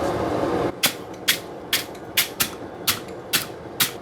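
Hammer blows on steel, sharp ringing strikes about two a second. They follow a steady rushing noise that cuts off abruptly under a second in.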